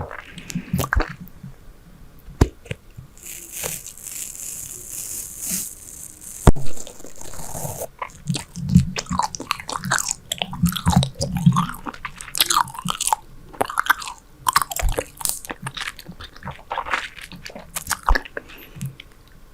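Close-miked chewing of Super Bubble bubble gum: wet smacks and crackly clicks in quick irregular succession. A steady hiss runs from about three to eight seconds in, and a single sharp snap comes about six and a half seconds in.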